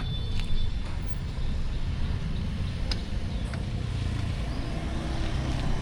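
Steady low rumble of street traffic mixed with wind on the microphone of a moving bicycle, with a few faint clicks and ticks, the clearest about three seconds in.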